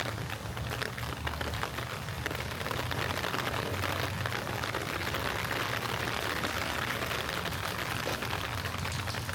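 Light rain falling, a dense patter of small drops over a steady hiss that grows somewhat louder in the middle.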